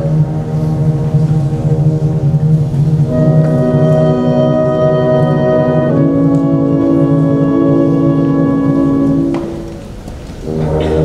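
Brass-led band music playing slow, held chords that change every few seconds, with a short break about nine and a half seconds in before the chords return.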